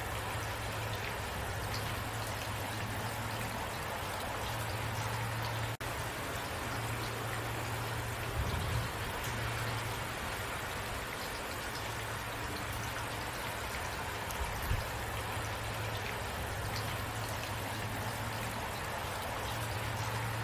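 Steady rain falling, an even hiss of drops with a low steady rumble underneath. The sound drops out for an instant about six seconds in.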